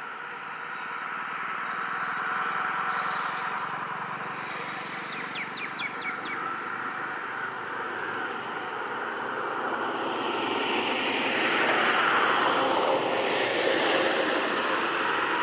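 Express train hauled by a WAP-7 electric locomotive running past: a steady rushing rumble that swells to its loudest about eleven seconds in. A quick run of about six short high chirps sounds around five seconds in.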